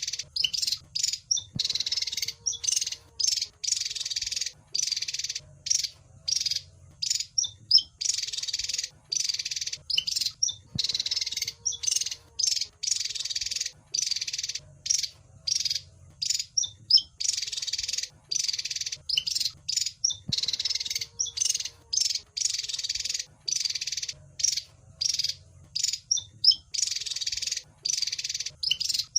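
Javan fulvetta (wergan Jawa) calling: bursts of high, rapid chattering about two seconds long, separated by short single chirps, the same pattern coming round about every ten seconds. A steady low hum lies underneath.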